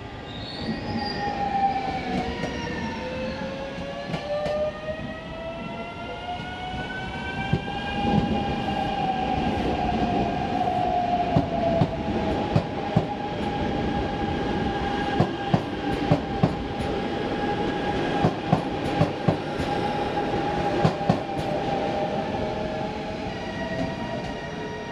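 Electric passenger train passing through a station: its motors whine, rising in pitch over the first several seconds and then holding steady. As the cars go by there is a run of sharp clicks from the wheels over rail joints, and the sound fades near the end as the train moves away.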